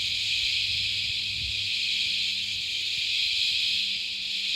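Chorus of cicadas: a loud, steady, high-pitched shrill that goes in waves, dipping briefly near the end.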